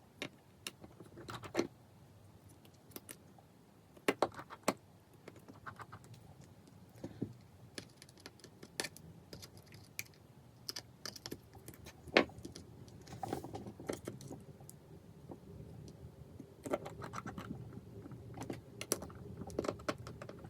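Small hand tools and metal phone parts clicking and tapping against each other and the work surface during an iPhone 5s repair: irregular sharp ticks and short clattering clusters, with a few louder clicks.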